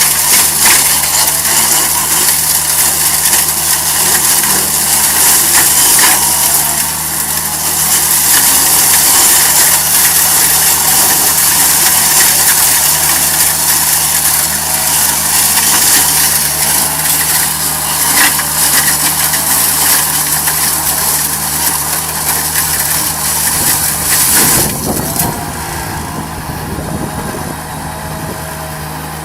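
An engine running steadily under a loud high hiss; about 25 seconds in, the hiss drops away and the engine sound changes.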